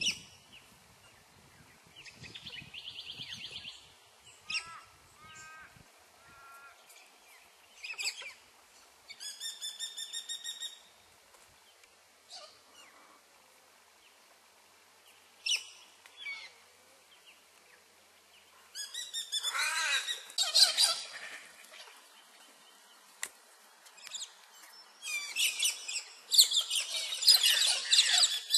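Several wild birds calling: fast trills and short whistled notes with pauses between, then two long spells of loud, dense, harsh chattering in the second half.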